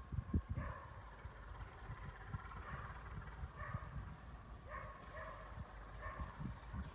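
Swans calling: a series of short, nasal, honking calls, roughly one a second, over an irregular low rumble.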